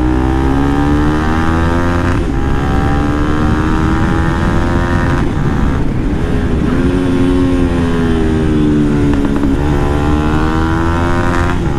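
Bajaj Pulsar NS200's single-cylinder engine running through a full-system Akrapovic exhaust with the dB killer fitted. It is under way, its pitch rising and falling gently with the throttle, with a few short dips in between.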